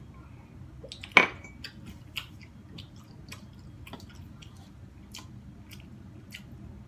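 Close mouth sounds of eating: a string of small wet clicks and smacks from chewing. About a second in there is one sharp, much louder knock.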